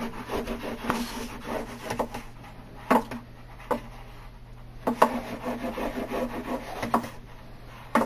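Speed roller rubbing back and forth along peel-and-stick edge banding on a particle-board edge, pressing it down so the adhesive bonds, with a few sharp knocks in between.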